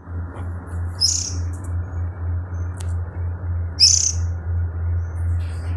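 A baby bird chirping: two short, high chirps about three seconds apart, over a steady low hum.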